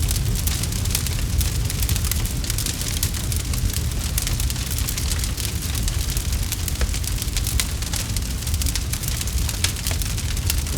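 Campfire burning, with a steady low rumble under many quick, sharp crackles and pops from the burning wood.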